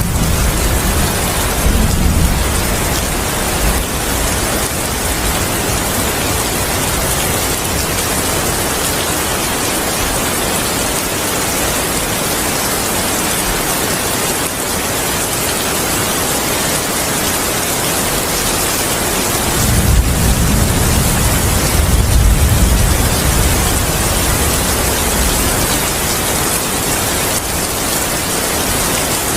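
Steady heavy rain hissing, with thunder rumbling low in the first couple of seconds and again for about five seconds a little past the middle.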